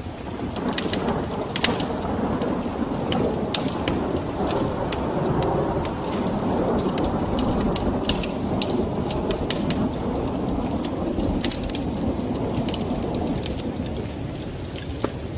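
Fireplace wood fire crackling, with many sharp pops scattered throughout, over a dense rushing noise that swells in and fades out near the end.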